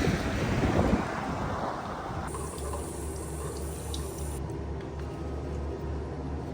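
Wind rushing across the microphone for about two seconds, then a change to a steady low drone of the van running, heard from inside the cab.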